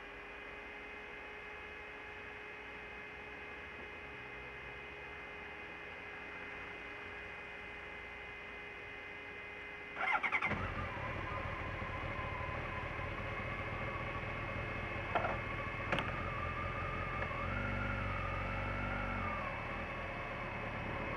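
Motorcycle engine starting about halfway through, then running at idle with a wavering whine over the rumble; two sharp clicks follow a few seconds later, and the engine note rises near the end.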